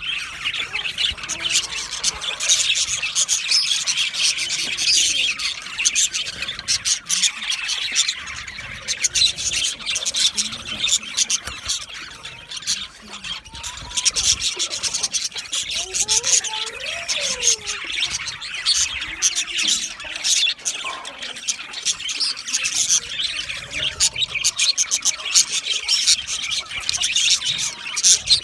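Budgerigars chirping, chattering and warbling nonstop in dense, overlapping high chirps, with a brief lull about halfway through.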